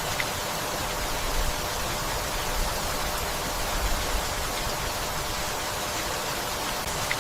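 Steady rainfall, an even hiss with no letting up, with small low rumbling swells every second or two.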